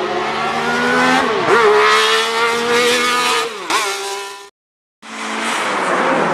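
A car engine accelerating hard, its pitch climbing and then dropping sharply at two gear changes, before it fades out. After a half-second gap, a classic Mini's four-cylinder A-series engine runs on the gymkhana course, its pitch rising and falling as it is revved between the cones.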